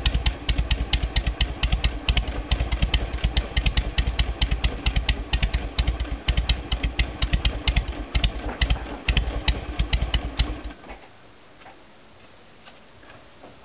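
Harley-Davidson Sportster 883R's carbureted 883 cc V-twin idling in a slow, loping three-beat rhythm through stock US-spec mufflers with the baffle punch-out widened to 15 mm, a dry, strong exhaust note. The engine is switched off about three-quarters of the way through, after which only a few faint ticks remain.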